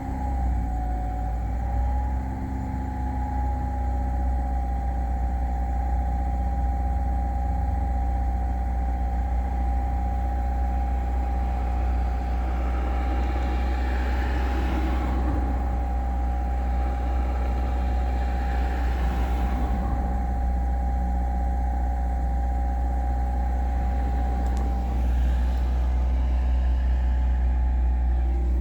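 Car engine running steadily while being warmed up, a low rumble with a steady whine above it; the pitch dips and settles in the first couple of seconds, then holds even.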